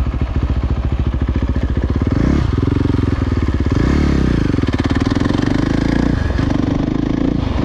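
Dirt bike engine running under the rider, its revs rising and falling several times with brief drops about two, four and six seconds in.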